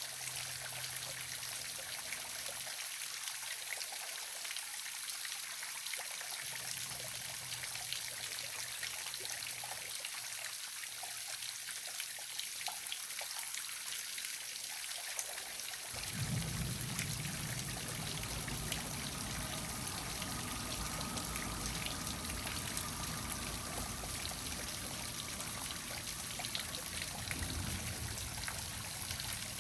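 Waterfall splashing and trickling steadily. A low rumble joins about halfway through.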